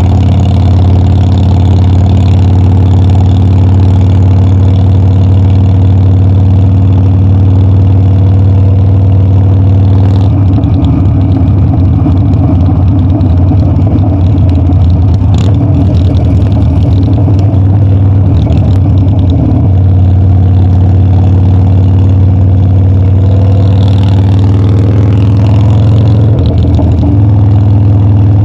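Harley-Davidson Dyna's V-twin engine running steadily on the move, turning rough and uneven from about ten seconds in to about twenty, steadying again, then rough once more near the end.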